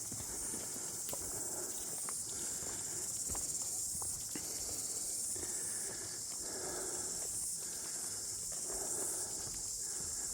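Footsteps crunching along a bush trail about once a second, with a few twig-like clicks, over a steady high-pitched insect buzz.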